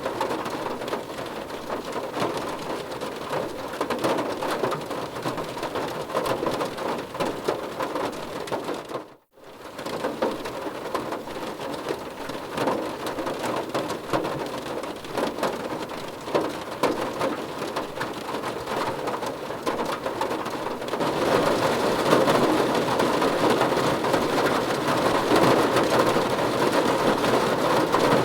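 Rain falling on a car's roof and glass, heard from inside the car: a dense patter of drops. It drops out for a moment about a third of the way in, then comes back and gets louder near the end.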